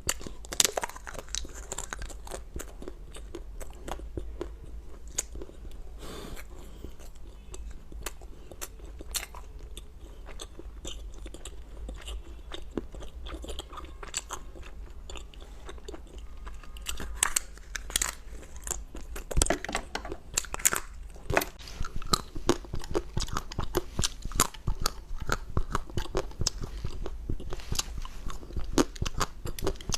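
Close-up chewing and biting of crunchy food: crisp crunches, sparse at first and growing denser and louder about halfway through.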